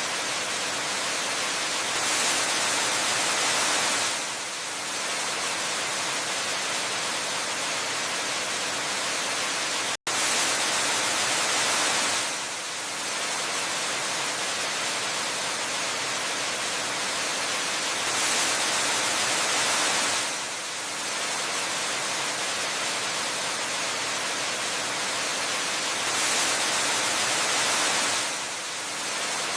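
Steady rushing of a waterfall, an even hiss that swells slightly louder for a couple of seconds about every eight seconds. It cuts out for an instant about ten seconds in.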